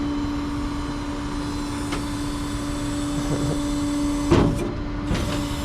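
Tow truck running with a steady droning hum, with a short loud clatter about four seconds in and a smaller one about a second later.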